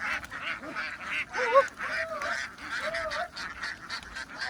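A large flock of domestic ducks quacking, many calls overlapping in a continuous din, with one louder call about one and a half seconds in.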